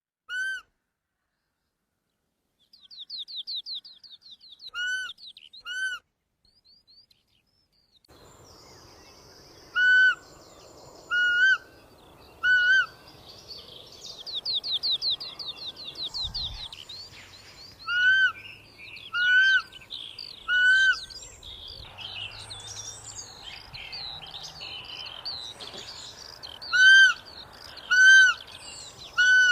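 Roe deer giving short, high-pitched, whistle-like calls, about a dozen of them in groups of two or three. Songbirds sing trills in the background.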